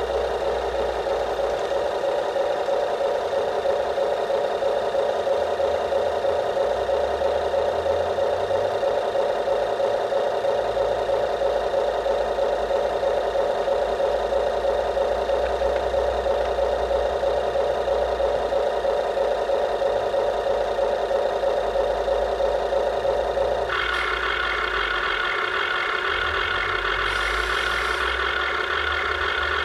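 Radio-controlled toy backhoe running with a steady, evenly pulsing engine-like hum. About 24 s in the sound changes abruptly to a higher-pitched whine.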